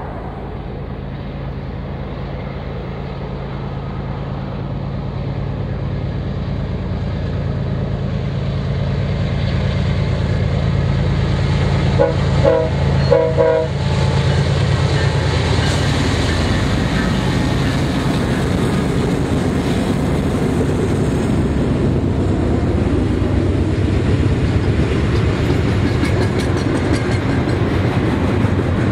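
A freight train's diesel locomotives approach, their engines drumming louder and louder. About halfway through the horn sounds in short blasts, then the train passes close by with steady wheel-on-rail noise.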